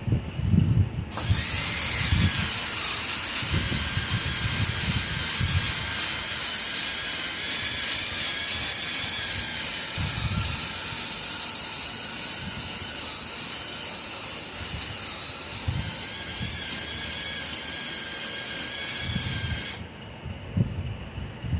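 A handheld power tool spins up about a second in and runs with a steady high whine and hiss, then cuts off sharply near the end, while prepping the car's metal frame. Low knocks and bumps sound underneath it.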